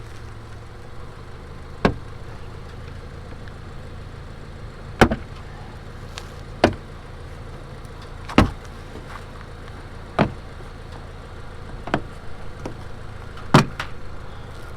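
Sharp plastic knocks and snaps, about seven of them every second or two, as a loose plastic underbody side panel is worked off its clips on a 2020 Subaru Forester. A steady low hum runs underneath.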